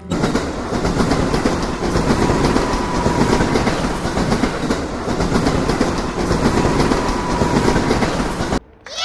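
Passenger train running along the track: a steady rumble with wheels clicking over the rails and a faint steady whine in the middle. It cuts off suddenly near the end.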